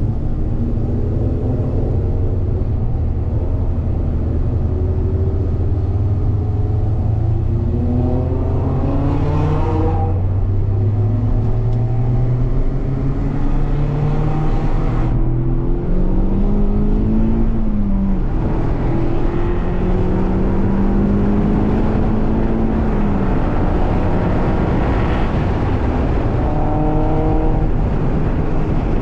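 Mazda MX-5's four-cylinder engine heard from inside the cabin, accelerating up through the gears, revs climbing and dropping back at gear changes about ten and fifteen seconds in.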